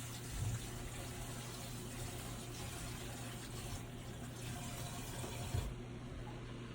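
Water running from a tap into a container, cutting off about six seconds in. Two dull knocks, one just after the start and one just before the water stops.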